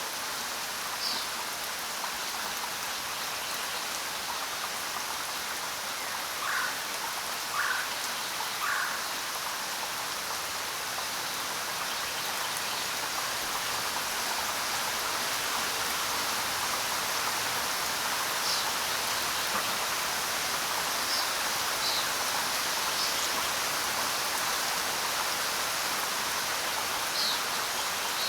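Steady rain falling on the ground, an even hiss of drops. A few short chirps rise above it: three lower ones close together about a third of the way in, and scattered high ones later.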